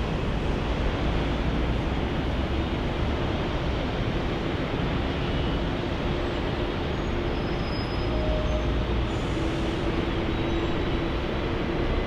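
Jet airliner engines running, heard as a steady rushing noise with a low hum that strengthens in the second half.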